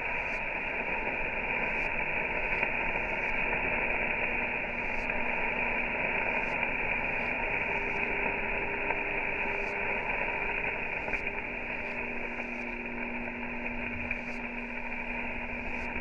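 Food sizzling in a pan over a campfire: a steady hiss, with sharp crackles about once a second.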